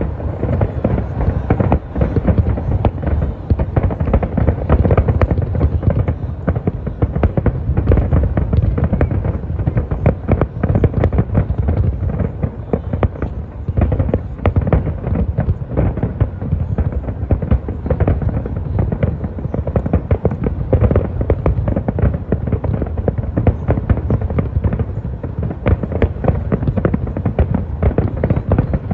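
Fireworks going off without a break: a dense, rapid run of pops and bangs.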